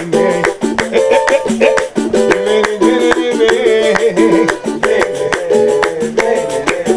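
Pagode band playing an instrumental passage: quickly strummed cavaquinho-like plucked strings over a steady shaker rhythm.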